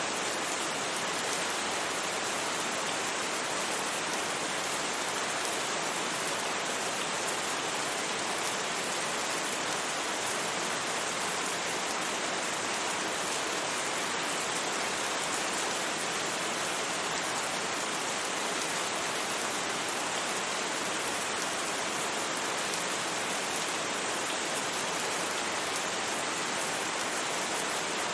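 Steady rain with a constant hiss, no thunder and no distinct drops standing out.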